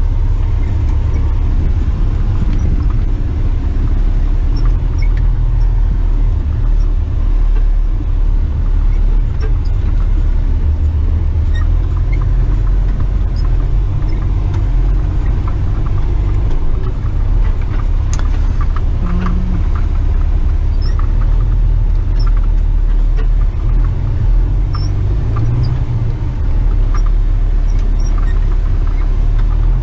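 Empty rigid tipper truck's diesel engine running as it drives off over rough ground: a steady, loud low rumble with occasional light clicks and rattles.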